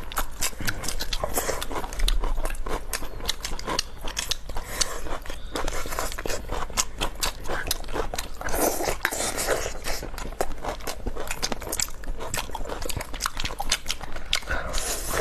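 Close-miked crunching and chewing of food, a dense run of irregular sharp crackles and mouth noises, busiest a little past the middle.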